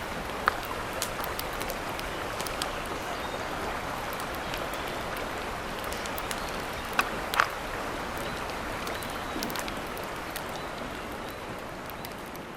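Steady hiss of water, with a few sharp pops and ticks scattered through it, a pair of louder ones a little past halfway.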